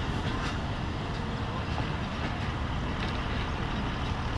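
Passenger train coach running along the line, heard from its window: a steady rumble of wheels on the rails with a few faint clicks.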